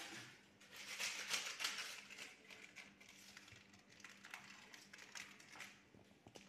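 Plastic seasoning sachet crinkling as it is handled, loudest about a second in, followed by scattered light clicks and taps.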